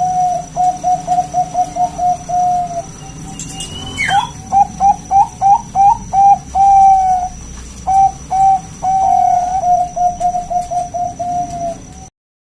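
Zebra dove (perkutut) cooing its song: runs of short, quick coo notes mixed with a few longer drawn-out coos. A brief falling whistle comes about four seconds in.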